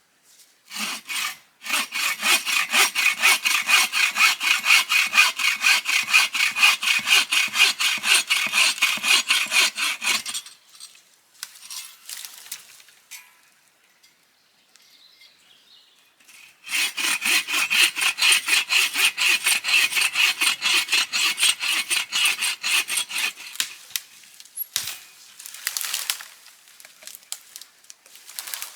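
Hand saw cutting through wood in two long bouts of quick, even back-and-forth strokes, with a pause of about six seconds between them and a few light knocks near the end.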